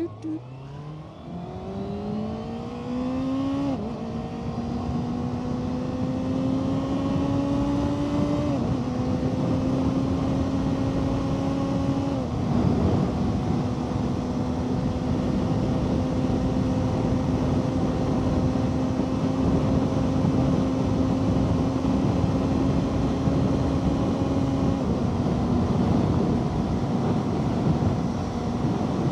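Motorcycle engine pulling away from low revs and accelerating through the gears, its pitch climbing and then dropping at upshifts about 4, 8 and 12 seconds in, before settling into a steady cruise with one more small shift later on. Wind rushes over the microphone throughout.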